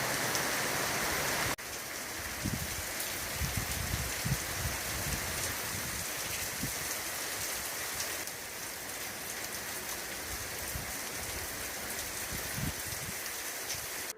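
Steady rain falling, with irregular heavier drops knocking on a surface close by. The sound steps down abruptly about a second and a half in.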